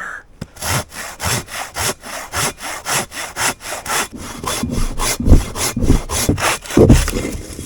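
Silky Katanaboy 650 folding saw cutting through a dead standing tree in quick, even strokes, about three a second. Two heavy low thuds come about five and seven seconds in.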